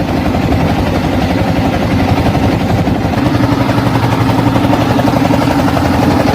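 Trawler's engine running steadily at an even speed, with a fast, regular chug.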